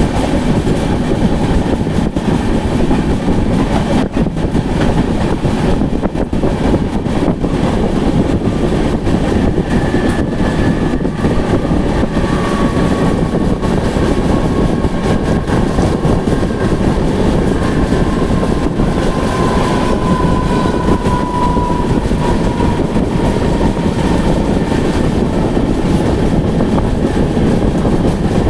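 A moving passenger train running steadily, a dense rumble of wheels on track with scattered faint clicks. Midway a faint high squeal slowly falls in pitch and fades.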